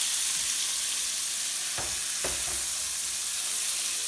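Ground turkey patties sizzling as they brown in a skillet, a steady high hiss. Two short knocks about two seconds in as the spatula flips patties over in the pan.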